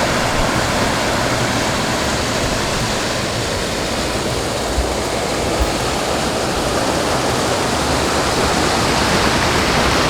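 Waterfall rushing, a steady dense roar of falling water.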